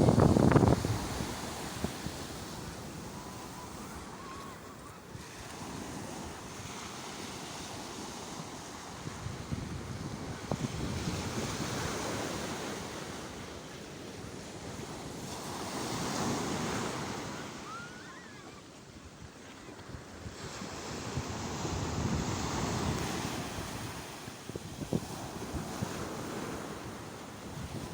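Sea waves breaking and washing in, swelling and fading about every five to six seconds, with wind buffeting the microphone. The loudest surge comes right at the start.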